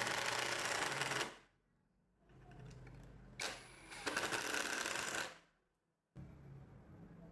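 A power tool cutting or grinding into material in two loud, rasping bursts, each about a second and a half long. The first ends after about a second, and the second comes about four seconds in. Between them it drops to near silence, then to a quieter running sound.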